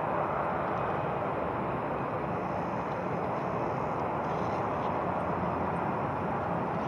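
Steady rushing noise of jet aircraft engines at the airport, even throughout with no distinct events.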